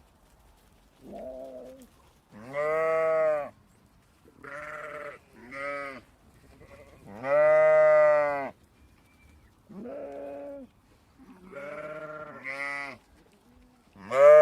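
A small group of goats and sheep bleating, about nine separate calls in turn with short gaps between them. The longest and loudest is in the middle, and another loud call starts near the end.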